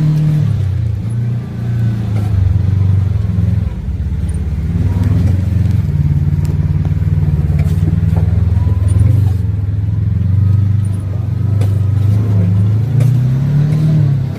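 Off-road vehicle engine running while riding a trail, its drone rising and falling in pitch with the throttle, with light clatter over it.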